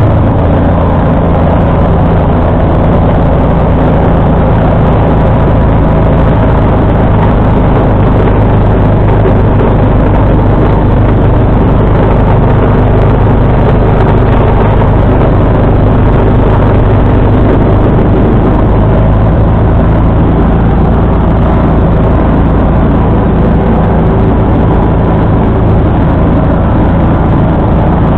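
John Deere 445 garden tractor's engine running steadily with the 47-inch snowblower, its pitch shifting a little midway as the load changes.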